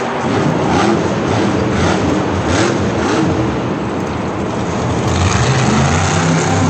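Monster truck engine running loud, its pitch climbing about five seconds in and then holding.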